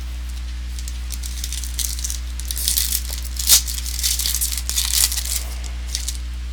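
Trading cards and their foil pack wrappers being handled: a run of crinkling, rustling clicks with one sharp snap about three and a half seconds in, over a steady low electrical hum.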